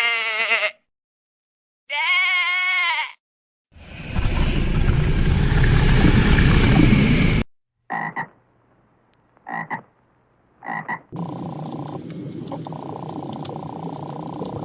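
A run of separate animal calls: two short pitched calls, a long loud rough call lasting about four seconds, then three short croaks about a second apart, and finally a steady croaking with a held tone.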